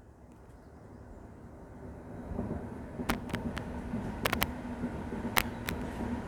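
Train running on the line below a footbridge, growing louder from about two seconds in. It brings a steady low hum and a few sharp clicks.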